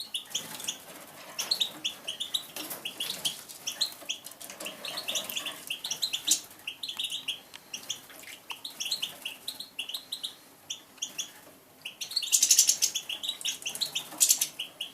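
Tame pine grosbeaks giving short chirping calls over and over. About twelve seconds in, a bird bathing makes a burst of splashing and wing-fluttering that lasts about two seconds.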